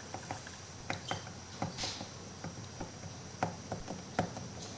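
Faint, irregular light clicks and taps of small MDF wood craft pieces being handled and set down while gluing, with a brief soft hiss about two seconds in.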